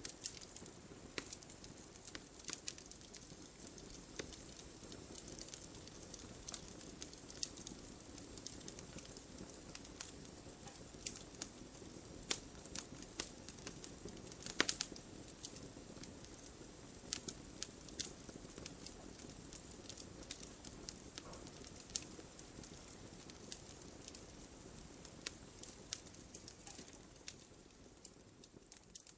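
Wood fire crackling: irregular sharp pops and snaps over a soft steady hiss, with one louder pop about halfway through. The sound fades down near the end.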